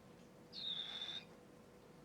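A cockatiel chick giving one drawn-out food-begging call about half a second in: a quick upward flick, then a high note held for well under a second.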